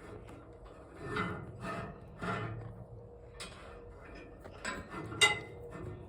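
Irregular metallic clanks and knocks, about six of them a second or so apart, the loudest a sharp clank about five seconds in.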